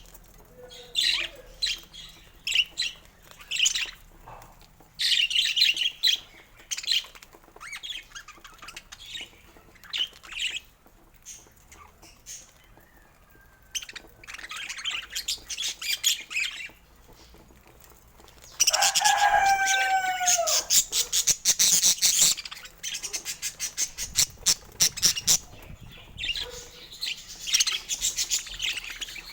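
Pet budgerigars chirping and chattering in short, high bursts. About two-thirds of the way through comes a louder, denser stretch of chatter with a few falling calls.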